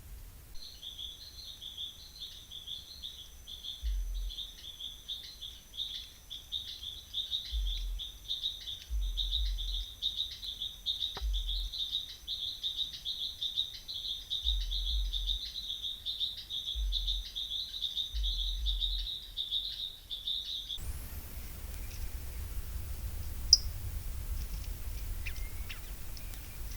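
A bird chirping in a fast, unbroken series of short high notes for about twenty seconds, with a few low thuds along the way. It stops abruptly, leaving steady hiss and a few faint clicks.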